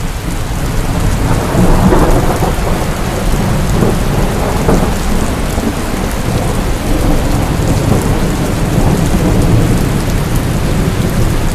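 Heavy rain falling steadily, with a long roll of thunder that swells about a second in, is loudest around two seconds in, and rumbles on underneath the rain.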